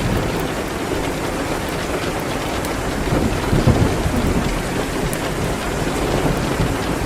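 Steady heavy rain, with a low rumble of thunder swelling and fading about three to four seconds in.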